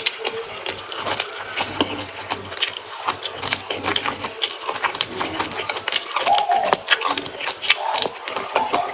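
Close-miked eating: irregular crunching and wet mouth clicks as raw vegetables and rice are chewed.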